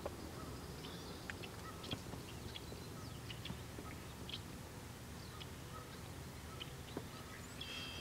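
Small birds chirping now and then in short, high notes over a steady low rumble of outdoor background noise, with a brief stacked call near the end.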